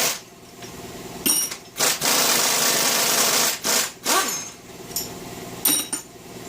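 Pneumatic air tool running steadily for about a second and a half, spinning out engine bolts, with sharp metallic clinks of socket and bolts before and after.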